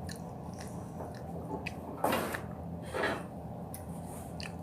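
Mouth sounds of someone chewing honeycomb: soft, wet little clicks, with two short, louder noisy sounds about two and three seconds in.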